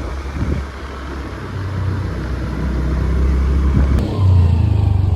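Riding on a Honda Activa scooter: a steady low rumble of engine, road and wind noise on the microphone, growing louder about four seconds in.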